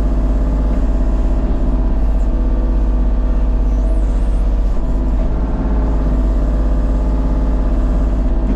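A motor vehicle's engine running steadily, a low, even drone with no change in pitch.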